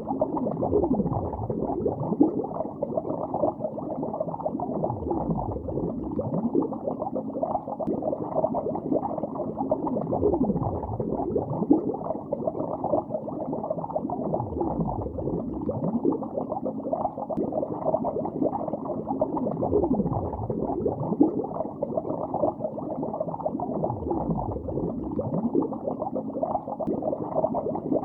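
Continuous underwater bubbling: a steady stream of gas bubbles gurgling, heard as a muffled, low rush with many small falling blips.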